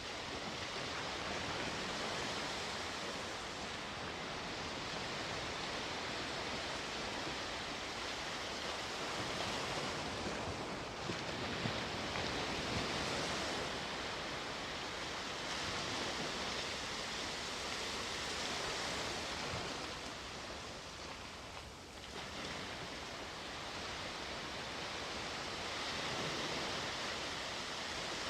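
Sea waves breaking and washing up the shore: a continuous hiss of surf that swells and eases every few seconds.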